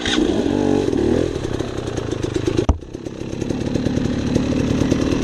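Dirt bike engine revving about a second in, then running steadily under throttle while the bike is worked out of a steep spot, with one sharp knock near the middle.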